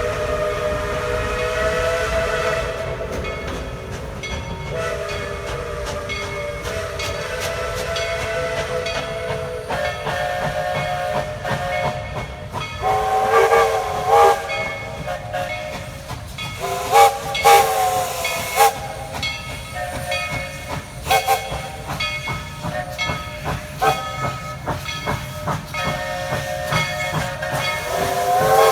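Steam locomotive No. 190's original White Pass whistle blowing long and short blasts, several notes sounding at once, over the hiss of steam. From about halfway on, the locomotive's sharp exhaust beats sound under the whistle.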